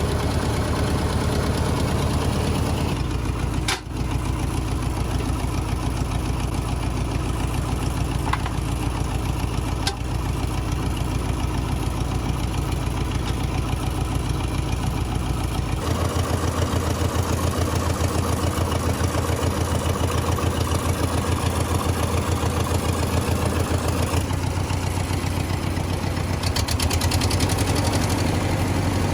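Engine idling steadily while its spark plug wiring and firing order are being sorted out after it ran badly. Its sound changes abruptly about three seconds in and again about sixteen seconds in.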